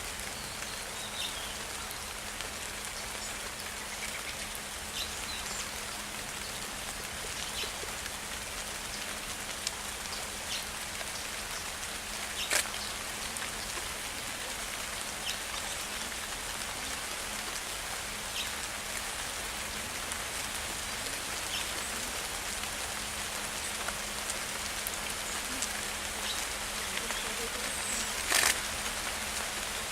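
Steady rain falling, an even hiss of drops with scattered small ticks and a few sharper taps, the loudest about halfway through and near the end.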